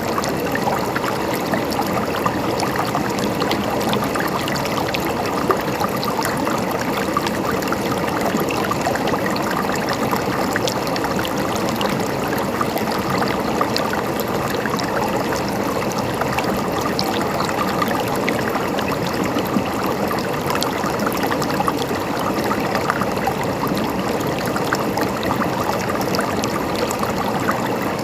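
Water running steadily in a stream, a continuous babbling and gurgling flow with many small splashes.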